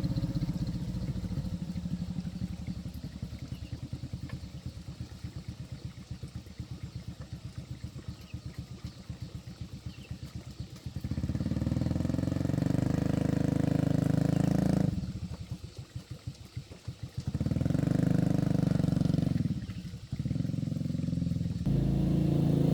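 A small engine running at low idle with distinct, evenly spaced firing beats that slowly fade over the first ten seconds, then revved up and let back down several times.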